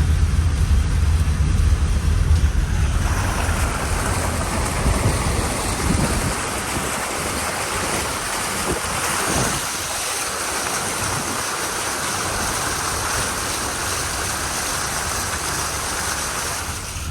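A vehicle driving through floodwater: water rushes and sprays against the body in a steady hiss that starts about three seconds in, over the low hum of the engine.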